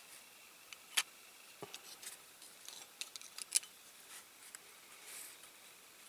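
Light clicks and taps of small plastic and die-cast toy parts being handled, as a new plastic window unit is fitted into a diecast van body. The sharpest click comes about a second in, with a quick cluster of taps around the middle.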